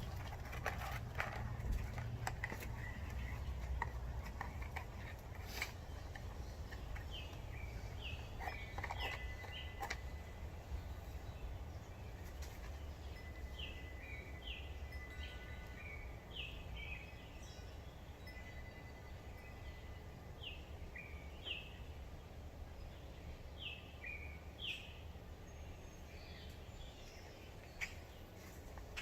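A bird singing in short phrases of two or three quick chirps, repeated every few seconds, over a steady low rumble. A few sharp clicks come in the first several seconds.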